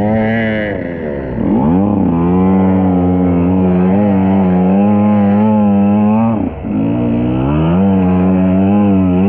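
KTM EXC 125 two-stroke enduro engine running hard under throttle. The revs drop briefly twice, about a second and a half in and again near six and a half seconds, then climb back each time as the throttle is reopened.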